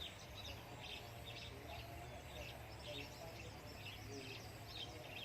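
Small birds chirping faintly: many short, high chirps scattered irregularly, over a steady low hum.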